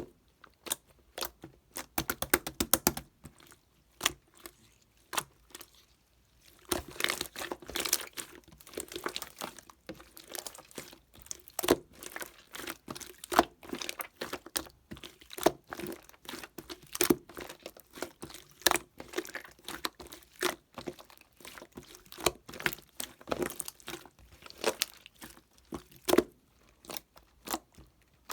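Irregular clicks, taps and crinkling of objects and packaging being handled at close range, with a short pause about five seconds in.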